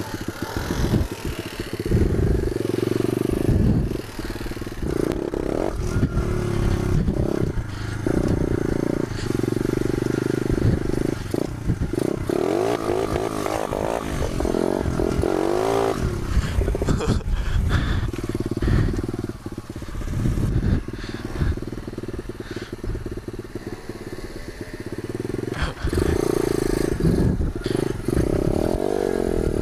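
Pit bike engine running while riding, its revs rising and falling through the middle as the rider works the throttle.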